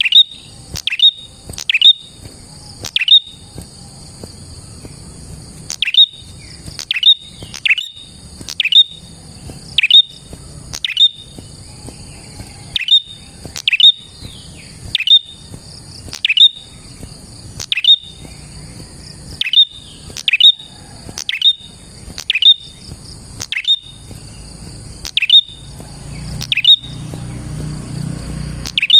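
Prenjak (prinia) singing: loud, sharp call notes, each dropping quickly in pitch, repeated about once a second and sometimes doubled, over a steady high buzz.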